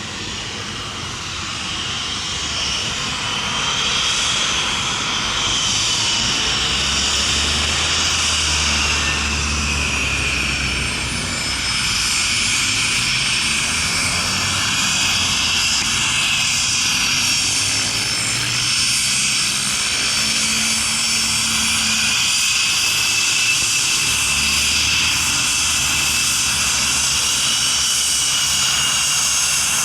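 Learjet 55's Garrett TFE731 turbofan engines running with a high, slowly wavering whine over a steady roar and a low rumble. The sound swells over the first few seconds, then holds steady.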